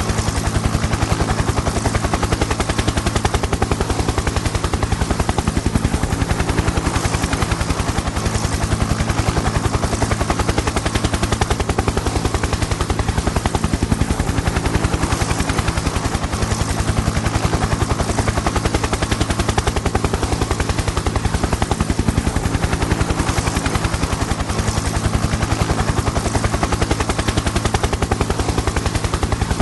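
Helicopter flying, its rotor blades chopping in a fast, even pulse over a steady turbine and engine hum.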